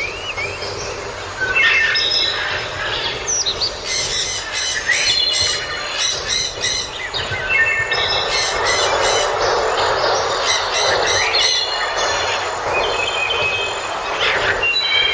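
A crowd of seabirds squawking and calling over one another in many short, overlapping high calls, over a steady rushing noise of surf or wind.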